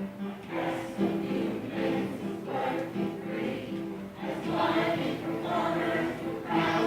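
A group of voices singing together, held notes changing every half second or so.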